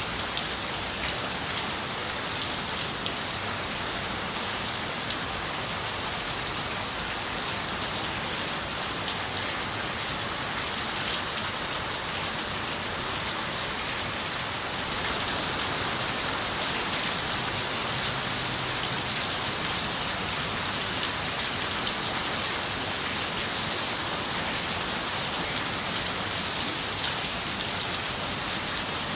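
Steady rain falling on a window, with scattered sharper drop ticks; the rain grows slightly heavier about halfway through.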